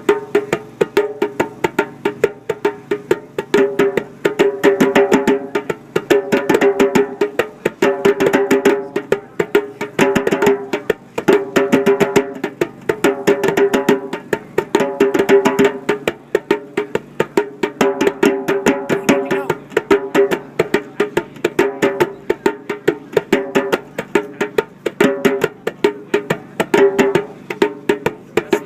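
Hand percussion played as a rhythm: fast, dense strikes with a hollow, pitched knock, one player keeping a basic beat while another plays variations over it. The pattern repeats about every two seconds and stops near the end.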